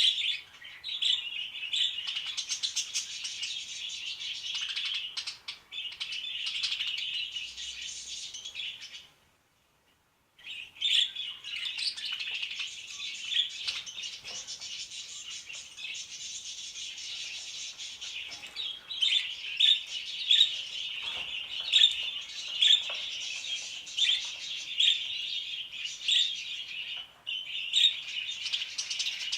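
Budgerigars chattering and warbling without pause, a steady stream of high twittering with sharp chirps. The chatter breaks off for about a second partway through, and louder, sharper chirps stand out through the second half.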